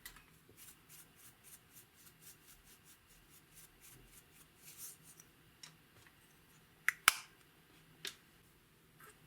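Clear slime being mixed with makeup and glitter: a run of light, quick clicks and pops, about four a second, then a few sharper single clicks, the loudest two close together about seven seconds in.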